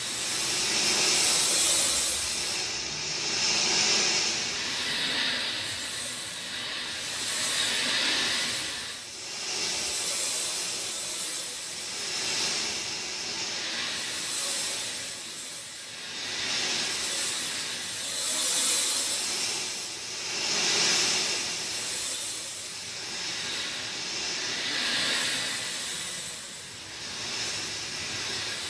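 Steady rain hiss that swells and eases every couple of seconds.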